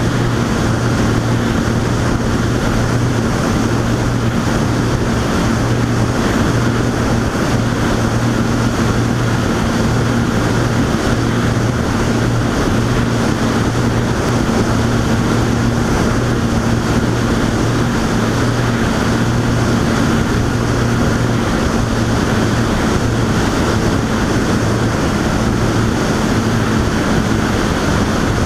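Boat engine running at a steady low hum under way, with wind and water rushing past.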